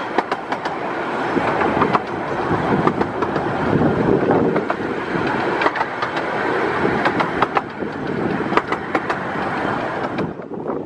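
Carriage of a 15-inch-gauge miniature railway running along the track, heard from an open carriage window: a steady rolling rumble with irregular sharp clicks of the wheels over rail joints and points. The rolling sound drops away suddenly about ten seconds in.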